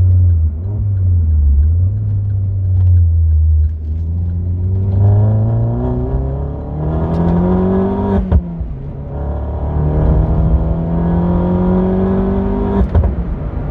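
Opel Corsa OPC Nürburgring Edition's turbocharged 1.6-litre four-cylinder heard from inside the cabin. It runs low at first, then accelerates with its note rising steadily. The note drops at a gear change about eight seconds in, rises again, and drops at another shift near the end.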